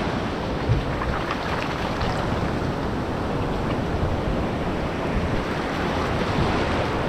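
Ocean surf washing steadily on the beach, with wind on the microphone.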